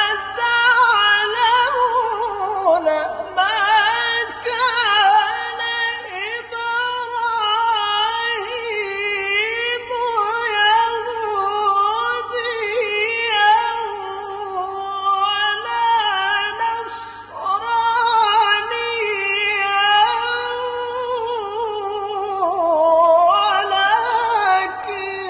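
A qari's voice reciting the Quran in melodic tilawah style: long, high, heavily ornamented phrases with wavering pitch, broken by short pauses for breath.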